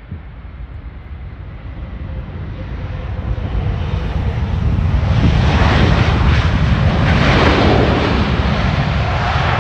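Jet airliner on landing approach passing close by: its engine noise swells steadily, loudest from about five seconds in, a broad rushing sound over a deep rumble.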